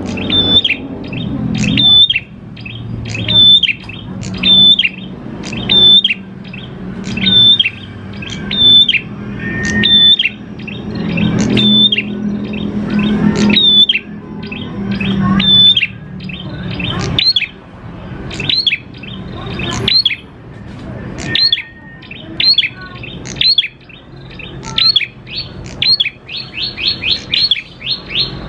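Prenjak klawu (ashy tailorbird) singing a series of sharp high notes, each dropping in pitch. The notes come about one a second at first and speed up into a rapid run near the end.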